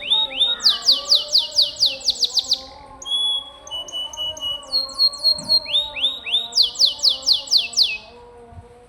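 Domestic canary singing: rapid trills of repeated down-slurred notes, switching to a new phrase every second or two, then stopping about eight seconds in.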